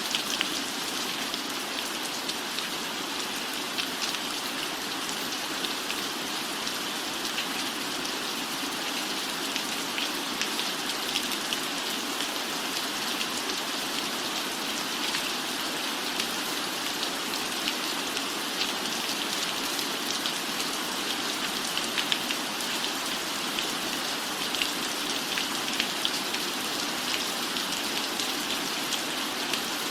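Steady rain falling on a cabin roof, a constant hiss scattered with many small drop ticks.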